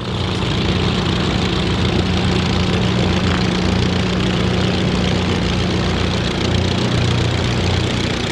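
Propeller aircraft engine running steadily at low power, a constant low hum with overtones.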